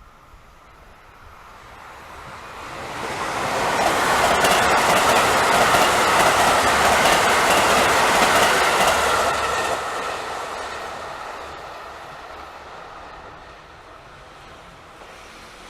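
A train passing on the line. Its rumble builds over a few seconds, stays loud with the wheels clicking over the rail joints for about five seconds, then fades away.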